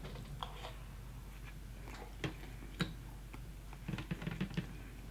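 A person quietly chewing fried chicken: scattered small clicks and soft crunches, with a short cluster of them about four seconds in.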